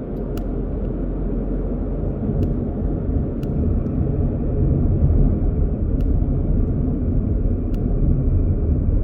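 Car driving along a road: steady low road and engine rumble that grows louder over the first few seconds, with a few faint clicks.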